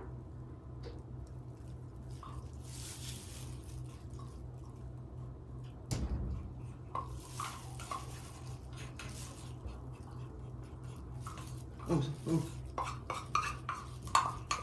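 Kitchen utensils clinking, knocking and scraping against a bowl and tray while melted dark chocolate is put in. There is one knock about six seconds in and a run of clicks and knocks near the end, over a steady low hum.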